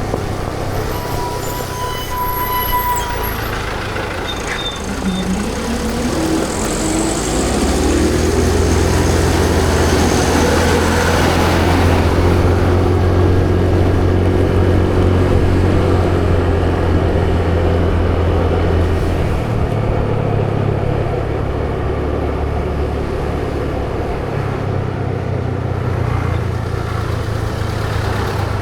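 Motor vehicle engine running amid road traffic noise. About five seconds in its pitch rises as it speeds up, then it holds steady and eases off about two-thirds of the way through. A short high tone sounds in the first few seconds.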